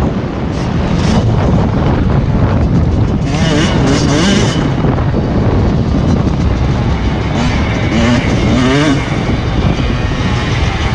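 Motocross bike engines revving, their pitch rising and falling as they accelerate and shift, with a climb about four seconds in and another near nine seconds.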